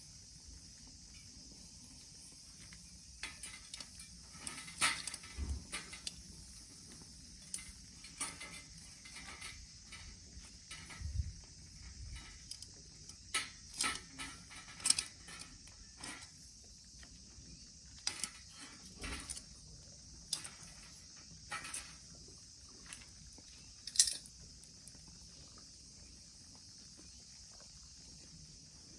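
Turban shells grilling over a solid-fuel mini fire stand, giving irregular pops and crackles over a steady high hiss; the louder pops come about five, fifteen and twenty-four seconds in.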